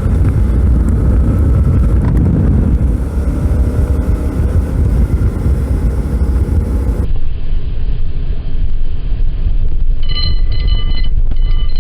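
Wind rushing over the microphone with a 2012 Suzuki V-Strom 650's V-twin engine running underneath while riding. About seven seconds in the sound changes abruptly, and near the end a few thin, high, steady tones come and go.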